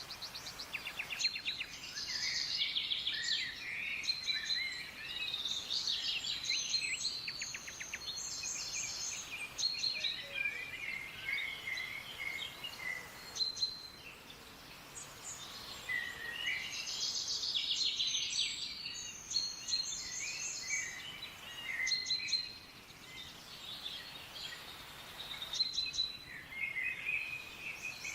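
Several wild birds singing and calling together: overlapping chirps, quick trills and short whistles, over a steady faint hiss.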